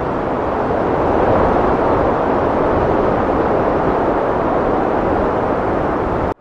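Heavy wind blowing as a steady, loud rush of noise, swelling slightly in the first couple of seconds, then cutting off abruptly near the end.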